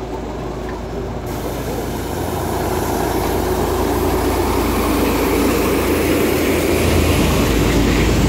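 Diesel locomotive hauling a passenger train past, its engine a steady low drone, then the coaches rolling by. The sound grows steadily louder.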